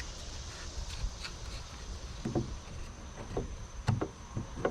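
A few light, dull knocks and taps at uneven intervals, from a sheetrock patch and tools being handled against the wall, over a steady low background hum.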